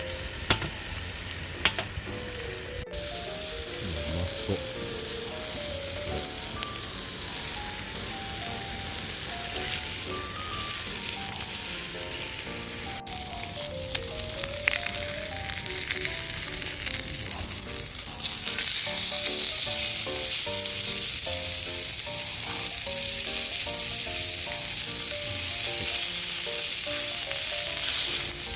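Food sizzling as it fries in a pan, the sizzle getting louder about two-thirds of the way through, under background music with a simple melody. A couple of sharp clicks sound near the start.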